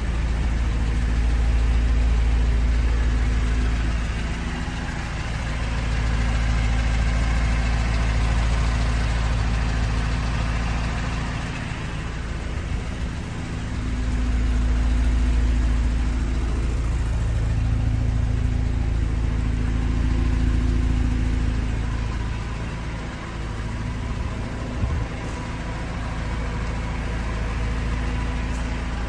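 Mercedes-AMG GLA 45's turbocharged 2.0-litre four-cylinder engine idling steadily, its level rising and falling a little.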